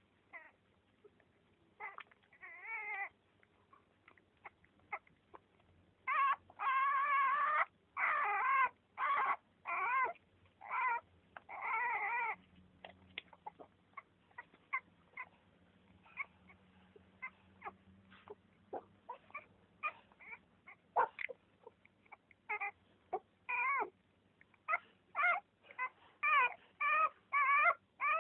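A litter of newborn pets crying: many short, high, wavering cries overlapping, with a run of louder, longer cries partway through and rapid repeated cries near the end.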